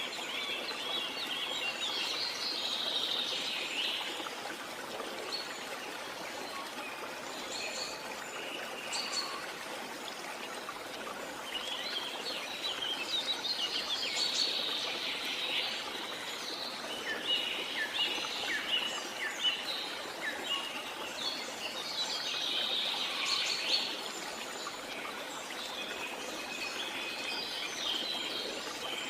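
Steady rush of a jungle waterfall, with birds chirping and calling over it in several bouts.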